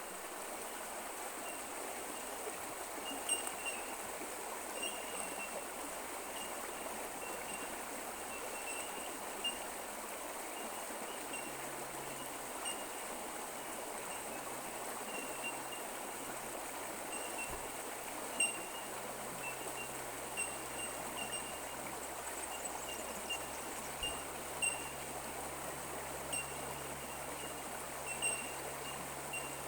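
Creek water running steadily, with short high chirps repeating every second or so over it.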